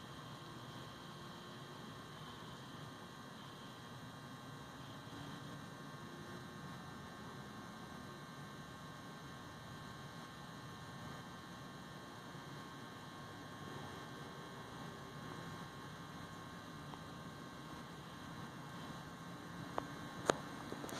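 Faint steady hum with a hiss underneath, and a couple of sharp clicks near the end.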